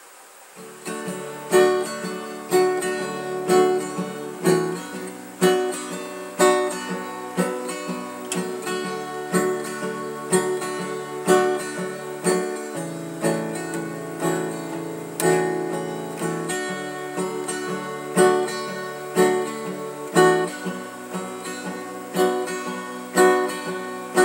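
Acoustic guitar strumming a steady chord progression as a song's instrumental intro, starting about half a second in, with accented strums about once a second and the chord changing every few seconds.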